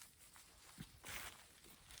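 Faint, sparse handling sounds: a soft low knock a little under a second in, then a brief rustle.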